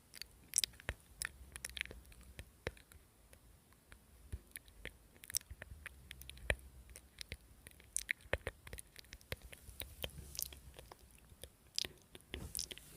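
Close-miked mouth sounds: irregular sharp crackles and pops, like firewood burning, mixed with chewing.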